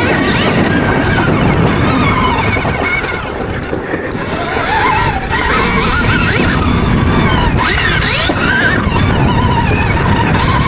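Stark Varg Gen 2 electric motocross bike's motor whining, its pitch rising and falling again and again with throttle and speed, over heavy wind noise on the microphone and tyre rumble.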